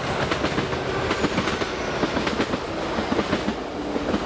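Passenger train passing on the main line: a continuous rush of wheel and rail noise with many sharp clicks, over a steady low tone.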